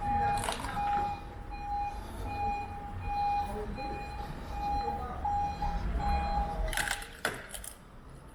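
A reversing beeper sounds about twice a second over a vehicle's low engine running. About seven seconds in, a van drives over crash debris of broken bumper plastic, giving a few sharp cracks and crunches.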